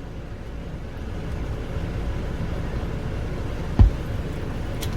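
Steady low rumble, with one dull thump a little before four seconds in.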